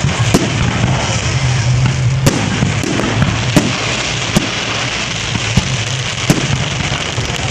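Fireworks bursting overhead: a string of sharp bangs at irregular intervals, several seconds apart at most, over a constant background din and a low steady hum.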